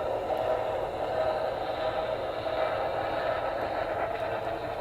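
HO scale Norfolk and Western Y6B model steam locomotive running steadily, its onboard sound system playing steam locomotive running sounds.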